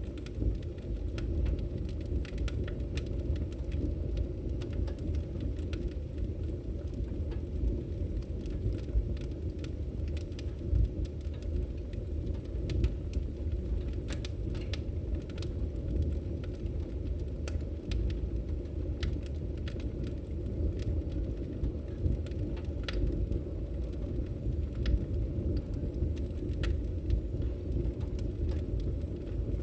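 Wood fire crackling in a fireplace: a steady low rumble of the flames with many irregular sharp pops and snaps.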